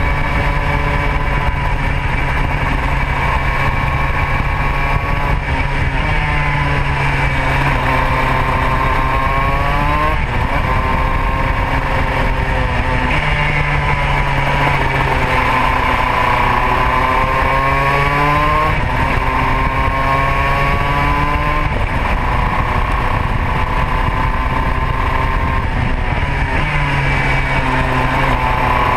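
Modena two-stroke kart engine at racing speed. Its pitch climbs steadily for a few seconds at a time and then drops sharply, about six times over, as the kart accelerates out of corners and lifts off for the next one.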